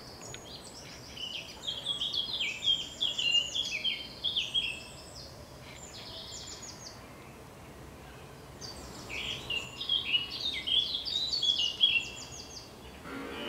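A small songbird singing in two bursts of quick, repeated falling chirps, the first starting about a second in and lasting some four seconds, the second near the end, over a faint steady hiss.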